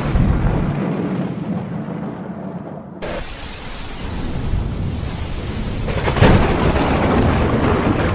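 Thunderstorm with heavy rain: a roll of thunder rumbles and dies away over the first few seconds, the rain hiss comes back abruptly about three seconds in, and a new, louder thunderclap breaks about six seconds in and rumbles on to the end.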